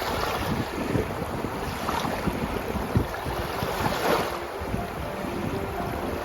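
Wind buffeting the microphone over the rush of sea water, with irregular low thumps from the gusts.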